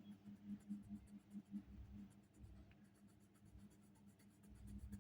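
Pencil or crayon tip scratching on paper in quick back-and-forth colouring strokes, a few strokes a second, easing off midway and picking up again near the end.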